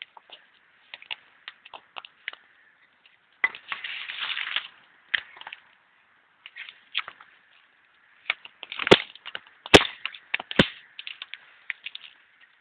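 Small wood campfire crackling with scattered pops, a dense rustling crunch about four seconds in, and three loud sharp wooden cracks less than a second apart near the end.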